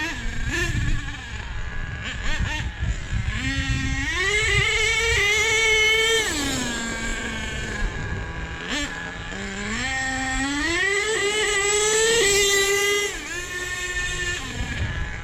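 Small nitro RC truck engine revving as the truck accelerates in two runs: its pitch climbs for a couple of seconds, then drops off sharply as the throttle is released, over a rough low rumble.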